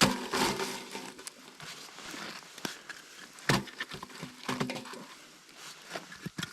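Irregular knocks and clatter of firewood being handled as a campfire is stoked, with a sharp knock at the start and another loud one about three and a half seconds in.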